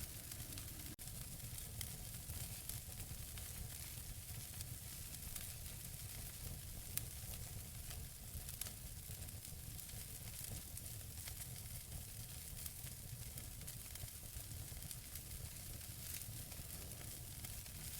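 Wood fire burning in a fireplace: a steady hiss of burning logs with scattered sharp crackles and pops over a low rumble. The loudest pop comes about seven seconds in.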